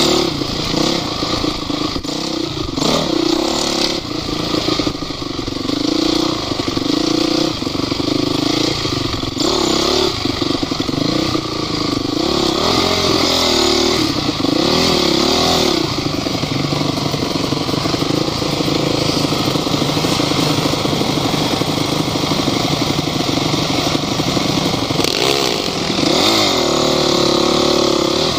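Off-road vehicle engine running under load, revving up and down over and over without a break.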